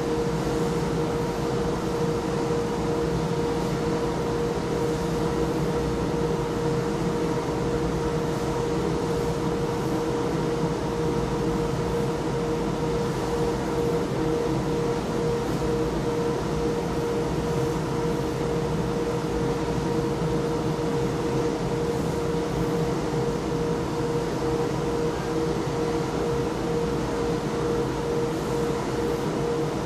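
Industrial machinery running with a steady mechanical hum and a constant mid-pitched whine, unchanging throughout.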